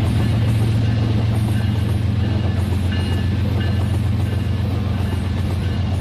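Battery-powered toy train running on its track, its small electric motor giving a steady low hum, with short high electronic notes of a tune over it.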